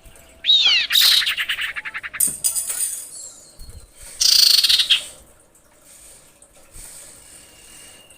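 Common iora calling: a falling whistle about half a second in runs into a fast, loud trill. A second loud trilled call comes about four seconds in, and a faint thin whistle near the end.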